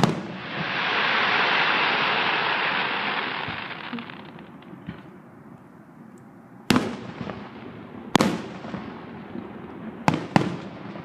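Aerial fireworks bursting: a sharp bang followed by a loud crackling hiss that fades over about three seconds, then four more sharp bangs, the last two close together near the end.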